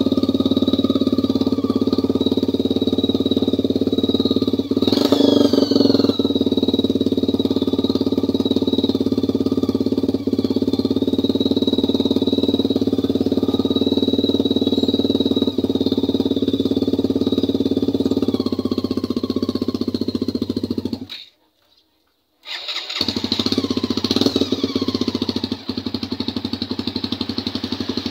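Suzuki Thunder 152 cc single-cylinder four-stroke motorcycle engine idling loudly through an open header pipe with no silencer fitted, blipped up in revs about five seconds in. The sound cuts out abruptly for a second or so near the end, then the engine is running again with another short rev.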